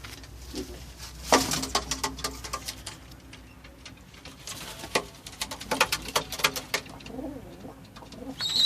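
Domestic pigeons cooing in a loft, with sharp clicks and scuffling through much of it.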